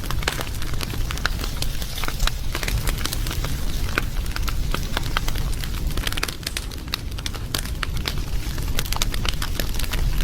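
Wood fire crackling, with many quick sharp snaps and pops over a steady low rumble of the flames.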